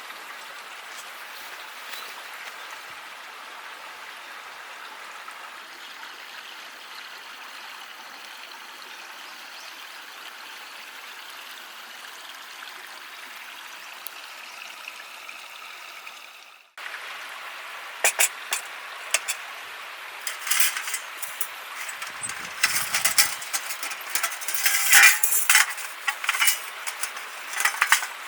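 A steady outdoor hiss, which cuts off abruptly about two-thirds of the way in. It is followed by many sharp metallic clinks and knocks, like camp gear and cookware being handled, busiest near the end.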